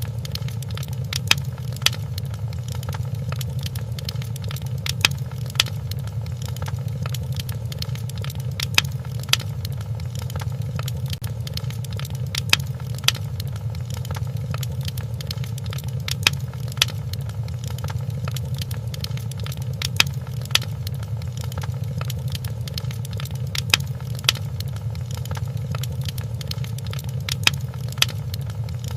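Wood fire crackling in a fireplace: a steady low rumble of burning, with sharp pops every few seconds, often two close together.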